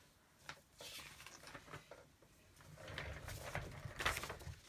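Paper and craft supplies being handled on a desk: scattered light knocks and clicks, then a louder stretch of rustling about three seconds in.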